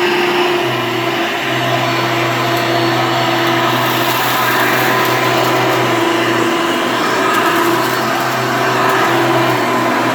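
Hoover Elite vacuum cleaner running, a steady motor hum and airflow noise whose pitch shifts slightly now and then as it is pushed through cleaning passes.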